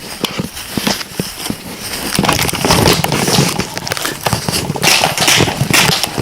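Footsteps crunching through dry brush and grass, with rustling and clicking of clothing and gear, a close irregular crackle that grows louder and denser about two seconds in.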